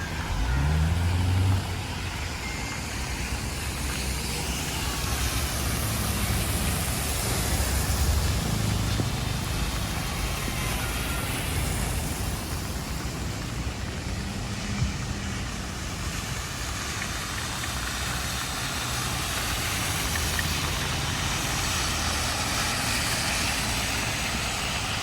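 Traffic on wet streets in heavy rain: a steady hiss of rain and tyres on wet road, with a low rumble of passing vehicles that rises and falls.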